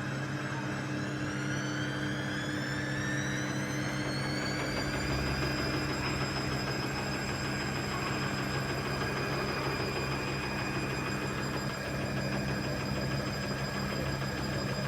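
Washing machine motor whining upward in pitch over about five seconds as the drum speeds up, then running at a steady high speed over a constant low hum.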